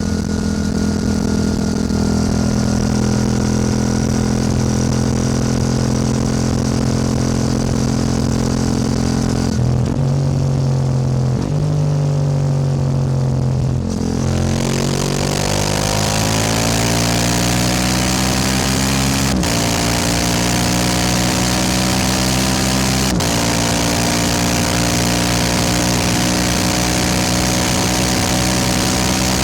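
Yamaha R7 motorcycle engine heard on board while riding. It holds a steady speed for a while, then the revs shift and drop. It then accelerates with rising revs, broken by two upshifts where the pitch drops suddenly, while wind noise builds with speed.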